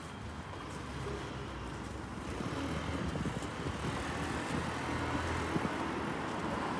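Motor vehicle engine running with a steady low hum that grows louder about two seconds in.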